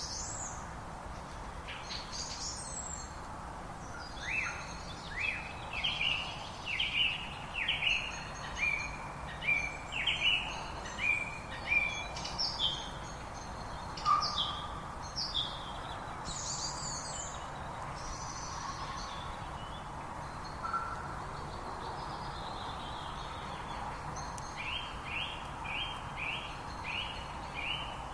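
Songbirds calling over the steady rush of a flowing river, with runs of quick downward-sweeping chirps about twice a second.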